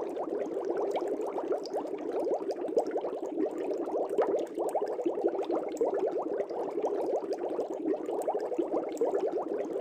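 Aquarium air bubbles rising and breaking at the water surface, a dense continuous bubbling.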